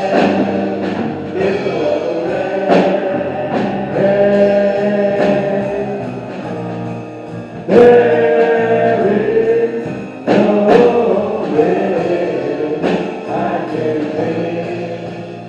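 Gospel song sung by a church choir with instrumental accompaniment, long held sung notes punctuated by a few sharp accented strikes.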